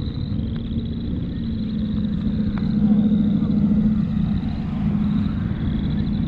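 A car engine running with a steady low hum that swells slightly in the middle.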